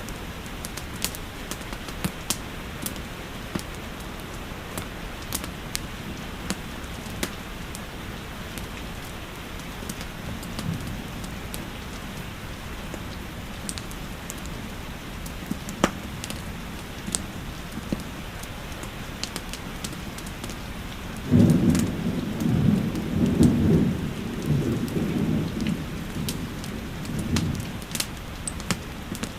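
Steady rain with scattered sharp crackles from a fireplace. Past the middle, a low rolling rumble of thunder swells and rumbles on for several seconds.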